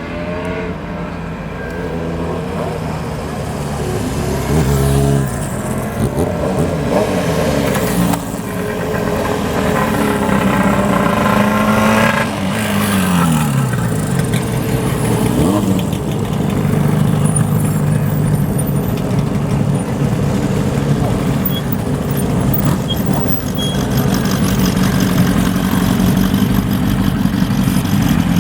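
Classic motorcycle engines from several bikes riding in one after another, revving with the pitch rising and falling. A clear falling sweep comes about halfway through, then a steadier engine drone.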